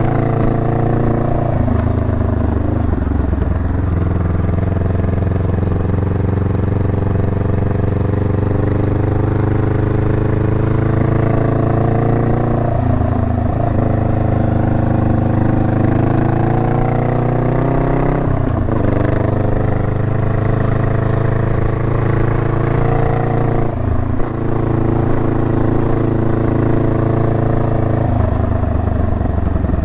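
Honda Rebel 500's parallel-twin engine running under way, its pitch climbing slowly through long pulls and dropping off briefly several times as the throttle changes.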